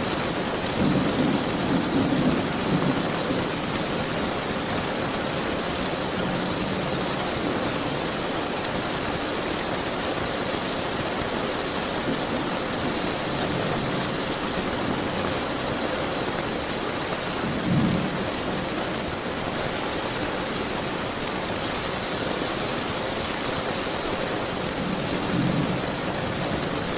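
Steady heavy rain falling, with low rumbles of thunder rolling in about a second in, again around the middle and near the end.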